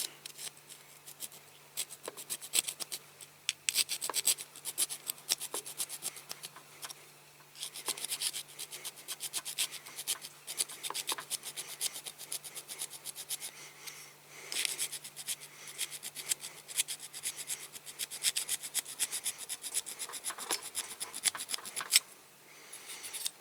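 Hand file rasping in quick, repeated short strokes on the metal rivet posts of a diecast model car, filing them down, with a few brief pauses between runs of strokes.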